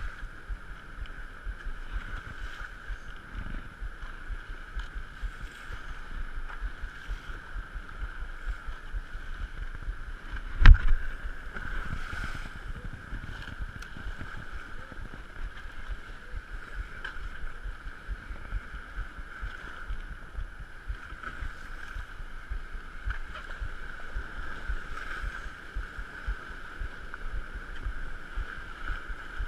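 Strong wind buffeting the microphone on a small fishing boat in choppy water, over a steady high hum. One sharp knock about ten seconds in is the loudest sound.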